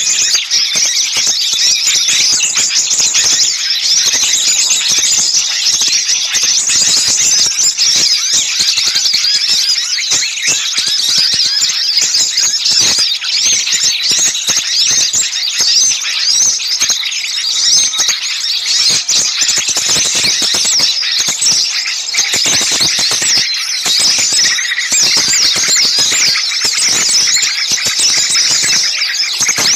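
Dense, continuous chorus of many small birds calling and chattering at once, used as a bird-lure recording to draw small birds in. It is a busy, unbroken mass of rapid high-pitched chirps and squeaky calls.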